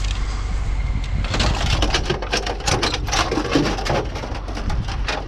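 An irregular run of quick, sharp clicks and rattles, starting about a second in and stopping near the end, over a steady low rumble.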